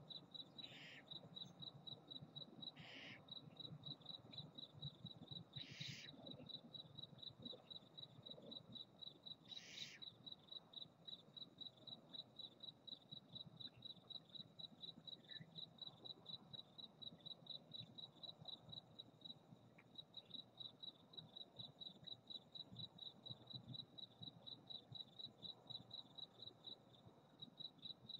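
Field crickets chirping steadily in an even, high-pitched pulse throughout. Over the chirping, barn owls give four short, raspy hissing calls in the first ten seconds, at about one, three, six and ten seconds in.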